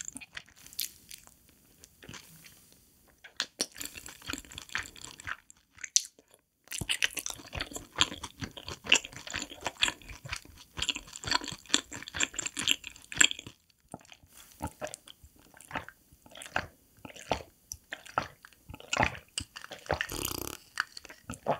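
Close-miked chewing of fried cheese-ball and corn-dog food with the mouth closed: irregular crunches and wet mouth sounds with short pauses. Near the end comes a sip from a glass of cola.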